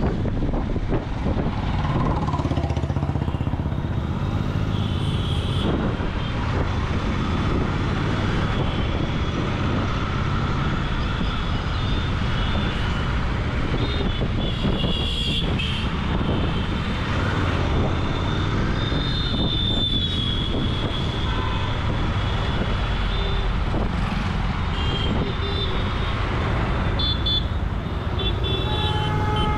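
Royal Enfield Continental GT 650's 648 cc parallel-twin exhaust running steadily while riding in road traffic. Other vehicles' horns honk at several points, with a longer honk near the end.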